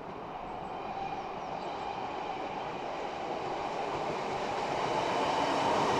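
ScotRail diesel multiple unit running along the line, a steady rumble of engine and wheels on rail that grows louder as the train approaches.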